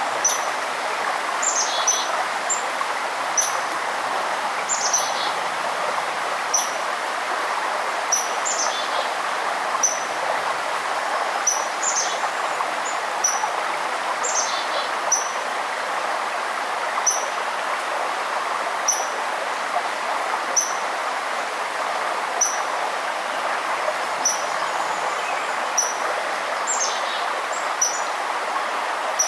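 A forest bird repeating a short, high chirp about every two seconds, with a few other bird calls falling in pitch, over the steady rush of running water.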